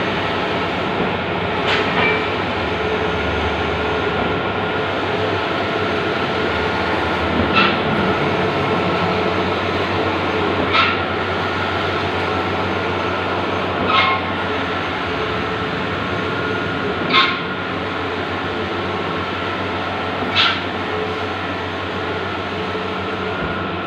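Bluewin outdoor large-format digital printer running: a steady mechanical whir and hum, with a short sharper clack every few seconds, six in all.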